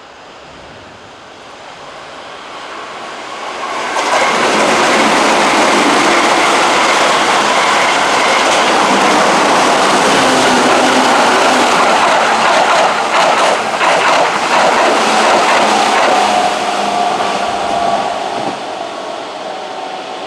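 Keihan 6000 series electric train passing through a station at speed without stopping. The rush of wheels and motors swells over the first few seconds and stays loud, with a run of clickety-clack from the wheels over rail joints past the middle, then fades near the end.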